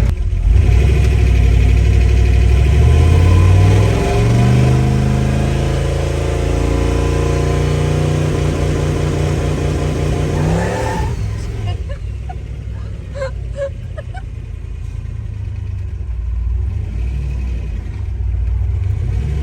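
Turbocharged 5.3 L LS V8 in a Nissan Hardbody truck accelerating hard, its note climbing in pitch with a gear change about four seconds in. About eleven seconds in it falls away sharply as the throttle is lifted, leaving the engine running lower and quieter.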